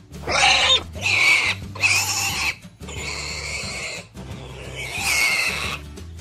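Pig sound effect, a series of about five separate pig calls, each under a second long.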